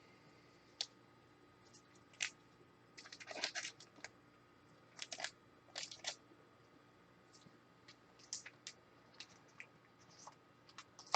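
Faint, scattered scratching and crinkling of trading cards and pack wrappers being handled, in a few short clusters of light clicks and scrapes.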